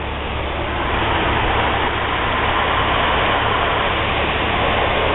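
Automatic car wash rinse water spraying steadily onto the car, heard from inside the cabin as a steady hiss that swells over the first second and then holds, with a steady low hum underneath.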